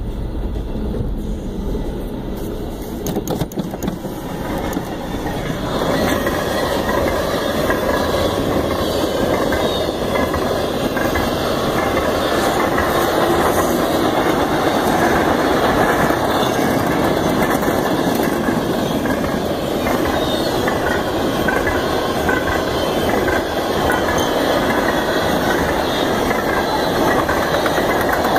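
Freight train cars rolling past, the wheels clacking over the rail joints in a dense, steady rumble. It grows louder about six seconds in and holds there.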